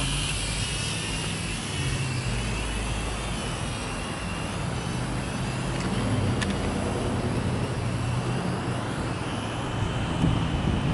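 Small R/C quadcopter drone's propellers whining as it flies, a high whine that wavers in pitch, over the low rumble of strong wind buffeting the microphone.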